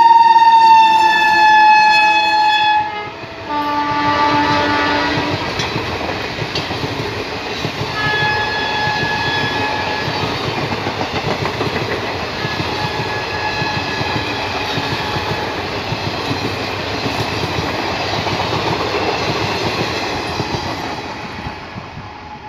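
A WAP-5 electric locomotive sounds its multi-tone horn as it passes at speed, the pitch sliding down. A second, shorter and lower blast follows a few seconds in. The passenger coaches then run by with a steady rushing rumble and wheel clatter, fading near the end as the train moves away.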